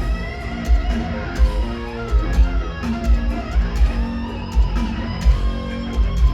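Live heavy metal band playing: electric guitar lines over bass and heavy, repeated drum hits.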